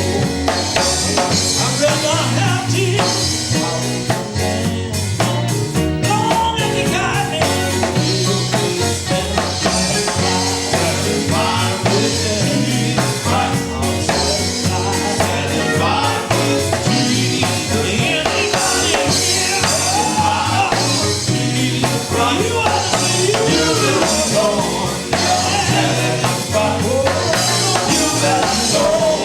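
Live gospel group singing with a band: voices over drum kit and a steady bass line.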